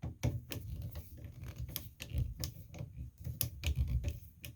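Irregular light clicks and taps, a few a second, of metal hand tools and hardware (screwdriver, bolt and washers) being handled while a puller is fitted to a shower valve cartridge.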